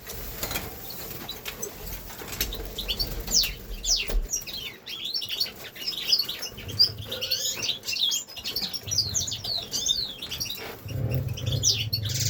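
A group of aviary finches chirping and twittering in quick, high, overlapping notes, with some wing fluttering.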